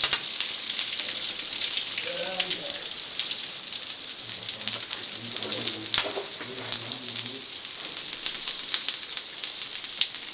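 Steady crackling hiss, with faint low voices about two seconds in and again around five to seven seconds in.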